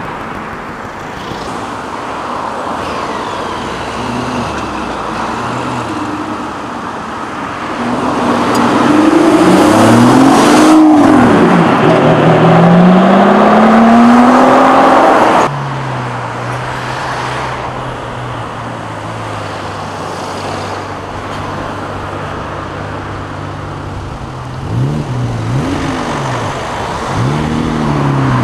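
Supercar engines leaving a car show: one car accelerates hard past, its engine note rising, arching over and climbing again, then cuts off suddenly. Another engine follows at a low steady idle and gives a few quick revs near the end.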